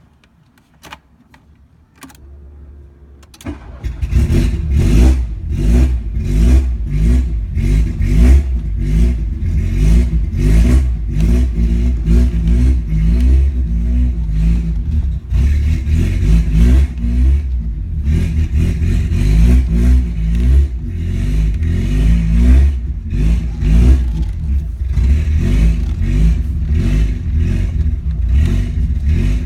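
1989 VW Golf GL's four-cylinder engine cranking briefly and catching about four seconds in, then running loudly with a pulsing note that swells and dips in level.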